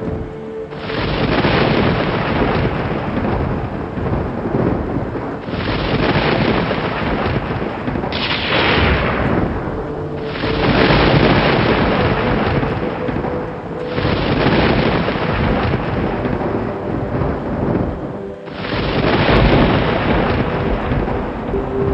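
Thunderstorm: continuous rolling thunder rumbling over rain, in segments that change abruptly every few seconds, with a sharp crack that falls away about eight seconds in.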